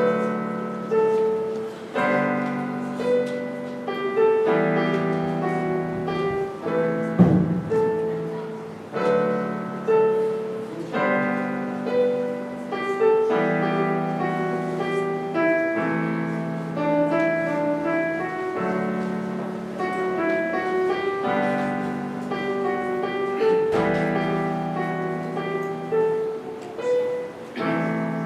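Solo piano playing a slow, gentle piece. A low chord is struck about every two seconds under repeating broken-chord notes higher up.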